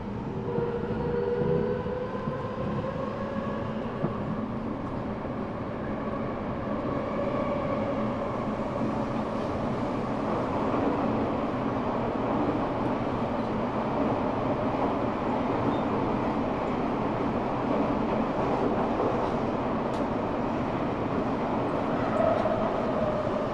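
Eidan 6000 series subway car running, heard from inside on the floor: a steady rumble of wheels on rail, with the whine of its Mitsubishi three-level VVVF inverter, a unit carried over from the 7000 series. The whine shows as several tones that glide slowly, and a fresh tone rises near the end.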